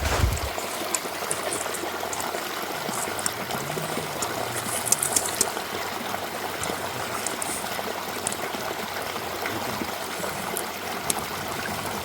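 Steady rush of flowing water, like a stream, with a few faint high ticks about four to five seconds in.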